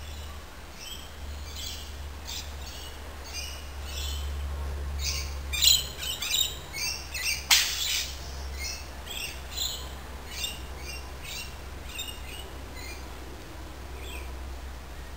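Birds chirping and calling in quick repeated high notes, busiest around the middle, with one sharp click near the middle, over a steady low hum.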